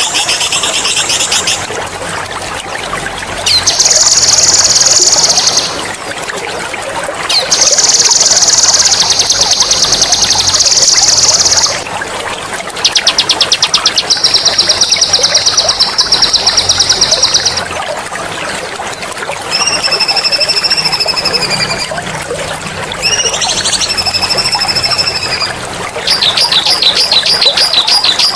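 Songbird song on a bird-mastering recording: a series of loud, high, very rapid rolling trills, each two to four seconds long with short pauses between, then two drawn-out whistled notes and another fast trill near the end, over a steady trickle of water.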